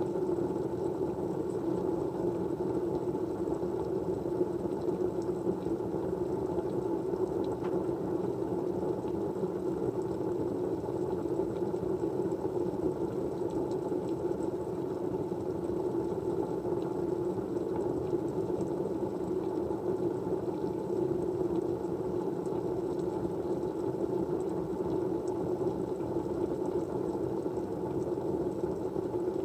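Steady, even white-noise background, a low rushing hiss with no change throughout, with a few faint clicks.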